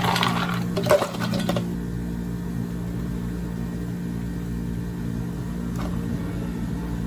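A steady low electrical hum from an appliance. A short clatter of handling sounds with a few sharp clicks comes in the first second and a half.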